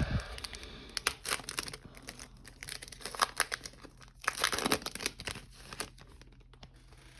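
A trading-card pack wrapper being torn open and crinkled by hand, in several crackling spells, the longest about four to six seconds in, then dying away.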